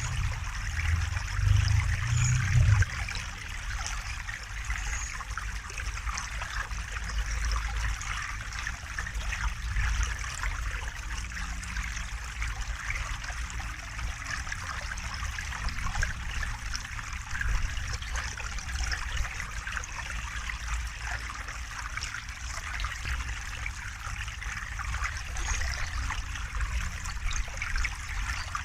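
A river or stream flowing and trickling steadily. A low rumble swells briefly about one to three seconds in.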